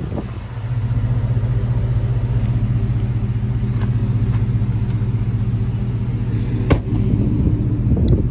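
V8 engine of a Chevrolet Tahoe idling steadily, getting louder about a second in. A single sharp click sounds about two-thirds of the way through.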